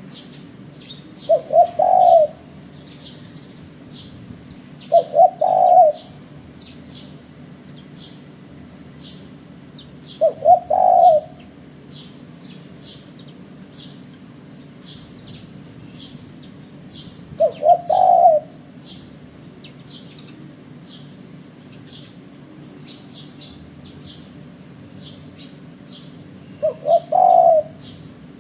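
Spotted dove (tekukur) calling: five coo phrases, each two short notes followed by a longer rolling coo, repeated every several seconds. Small birds chirp faintly and often throughout.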